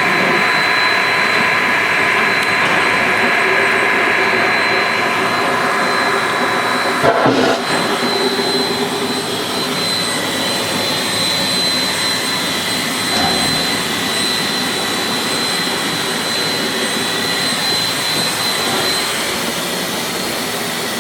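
Steady roar and hiss of Shay geared steam locomotive #9 heard from inside its cab, with the boiler up to working pressure of about 200 psi and a thin high whistle running through it. A brief knock about seven seconds in.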